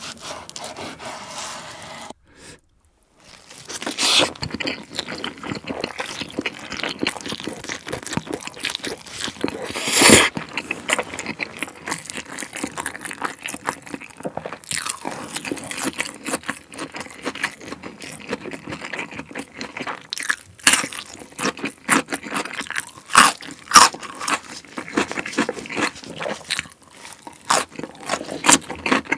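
Close-miked chewing of raw salmon slices with crisp lettuce leaves: uneven crunching, smacking and wet mouth sounds that start about four seconds in. Before a short silent gap, the first two seconds hold fainter sounds of a knife slicing the salmon fillet.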